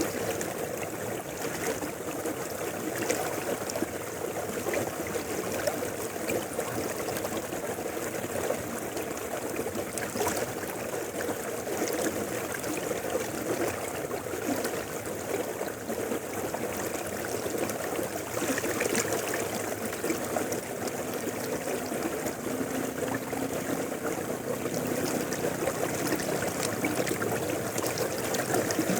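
River flowing steadily: a continuous, even rush of running water.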